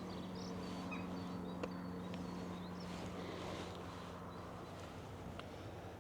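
Small songbirds chirping at intervals over a steady low hum, with a single sharp click a little under two seconds in.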